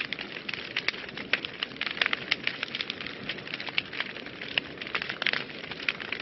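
Wood fire burning in a fireplace, crackling steadily with many sharp pops and snaps over a soft hiss.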